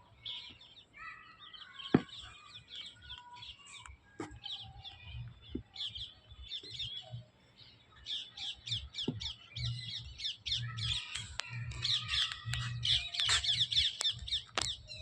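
Birds chirping in short, quick calls, sparse at first and crowding into a dense run of rapid chirps in the second half, with a few sharp clicks.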